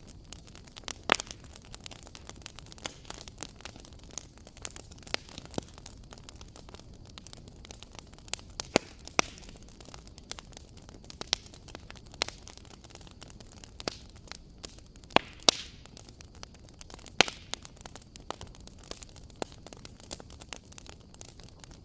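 Wood fire crackling: irregular sharp pops and snaps over a low steady hiss, with a few louder pops, two of them close together about two thirds of the way in.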